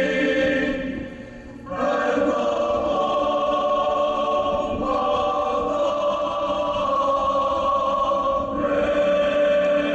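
Choir singing long held chords, dropping away briefly about a second in before swelling back.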